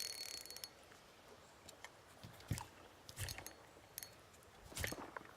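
Small spinning fishing reel being cranked: faint gear clicking with a few sharper knocks scattered through, the loudest about two and a half, three and nearly five seconds in.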